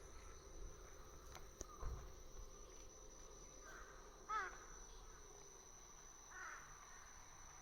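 Faint outdoor ambience with a steady high insect drone, broken about four seconds in by a quick run of short falling animal calls and a softer call near the end.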